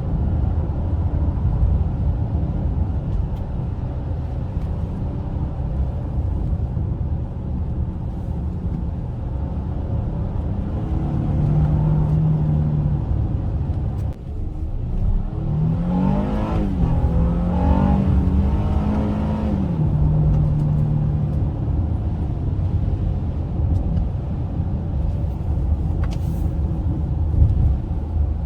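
2021 Honda Ridgeline's 3.5-litre V6 heard from inside the cab, over steady road rumble. About halfway through it accelerates hard, and the engine note climbs and drops several times.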